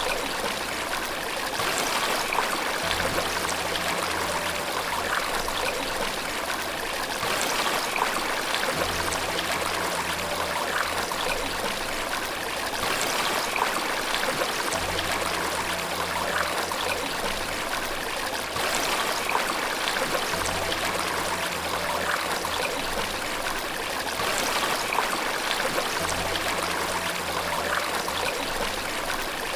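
Steady rushing and splashing of running water, like a small waterfall or stream. Faint low tones return about every six seconds beneath it.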